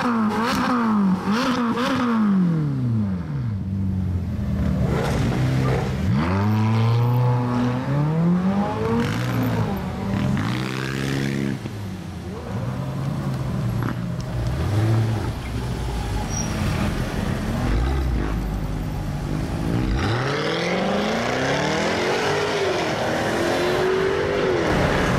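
Supercar engines revving hard again and again, each rev climbing steeply in pitch and dropping back, in quick succession and with short stretches of idle between.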